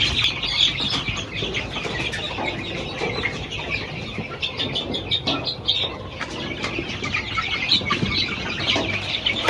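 A large flock of young chicks cheeping all at once, a dense stream of short high peeps with scattered light clicks.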